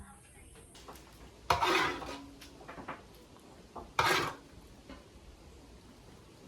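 Kitchenware clattering twice, two loud clanks about two and a half seconds apart; the first leaves a short ringing tone.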